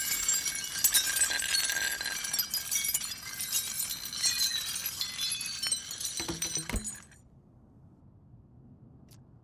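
Sound-designed glass terrarium smashing on the road, with shards tinkling and skittering for several seconds. It ends with a couple of dull thuds about six and a half seconds in, then cuts off to near silence about seven seconds in.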